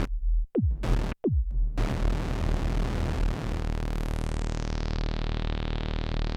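Arturia MicroFreak synthesizer playing preset sounds. A low droning note stops, two short percussive hits drop quickly in pitch, then a hissy sustained tone over a steady low note has its brightness slowly filtered down before cutting off near the end.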